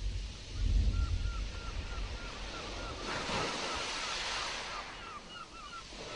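Stormy sea surf with wind. There is a low rumble in the first two seconds, and a wave washes in with a swell of hiss about three seconds in. A quick series of short chirps, about three a second, runs through it.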